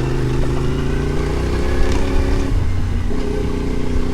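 Adventure motorcycle engine running steadily while ridden, its note shifting briefly about two and a half seconds in.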